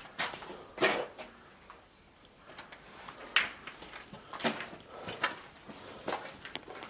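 Footsteps moving on, heard as a handful of irregular knocks and scuffs roughly a second apart.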